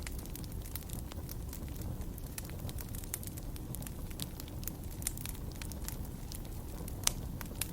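Wood fire in a fireplace crackling, with many sharp pops and snaps over a low steady rumble of the flames; one louder pop comes about seven seconds in.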